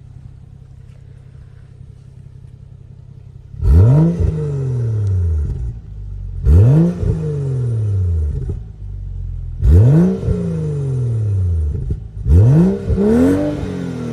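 Stock 2012 BMW 335i's turbocharged 3.0-litre inline-six (N55) on its stock exhaust, idling steadily and then free-revved four times: each rev rises sharply and drops back to idle over about two seconds. The last rev climbs twice and goes higher than the others.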